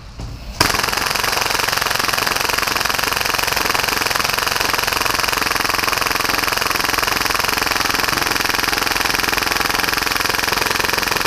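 HPA-powered Tokyo Marui Hi-Capa airsoft pistol firing full auto at about 30 rounds per second: one long, unbroken rattling burst that starts about half a second in.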